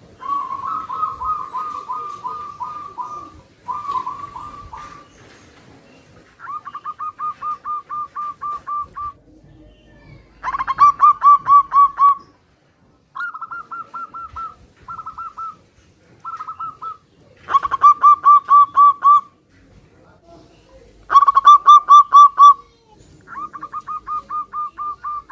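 Zebra doves (perkutut) calling back and forth: about ten phrases of quick, evenly pulsed coos, each one to three seconds long, some birds loud and close, others fainter.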